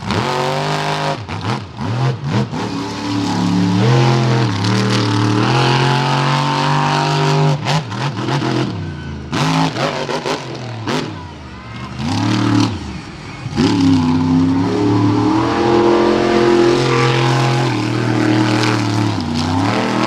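Monster truck engine revving hard, its pitch climbing and falling again and again, with short throttle lifts a few times where it drops away before coming back up.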